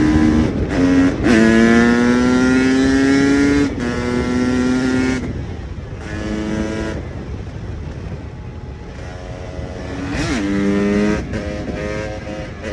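KTM EXC 300 two-stroke enduro engine under way. It pulls with a rising pitch after a couple of quick breaks, like gear changes, then goes off throttle and fades to a low, pitchless rumble for a few seconds. It picks up again and ends in a string of short throttle blips.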